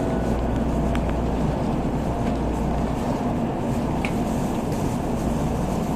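Steady running noise of an N700A Shinkansen at speed, heard inside the passenger car: an even low rumble and hiss, with a couple of faint ticks.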